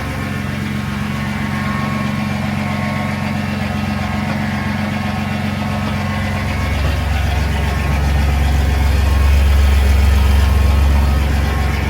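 Truck engine running steadily at idle, its low rumble growing louder for a few seconds near the end.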